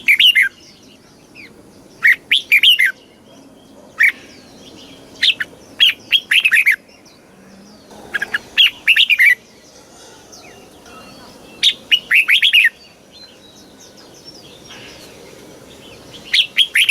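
Red-whiskered bulbul singing: short, bright phrases of quick whistled notes, one every couple of seconds with a longer pause near the end. Faint calls of other birds sound between the phrases.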